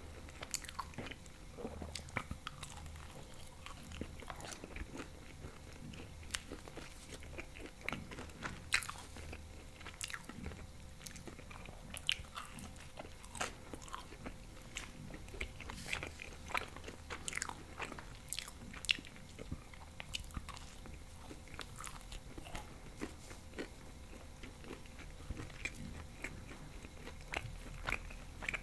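Close-miked chewing of bechamel pizza with ham and cheese: irregular crunches of crust and wet mouth clicks and smacks throughout.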